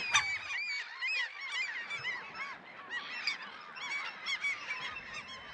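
Many terns calling at once, a dense overlap of short, arched calls repeating throughout.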